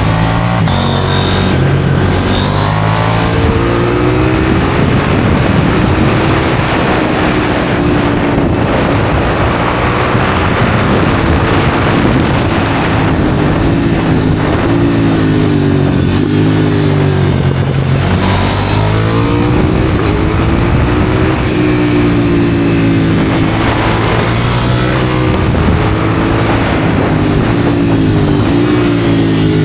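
KTM 790 Duke's parallel-twin engine through an aftermarket IXRACE exhaust, accelerating hard through the gears and backing off again several times, its pitch climbing, dropping at each shift and falling away on the overrun.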